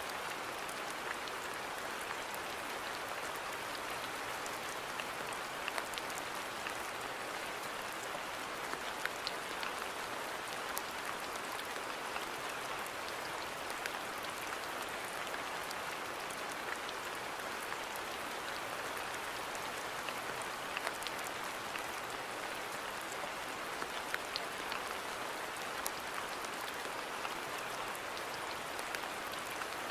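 Steady rain falling: an even hiss sprinkled with scattered sharper drop ticks.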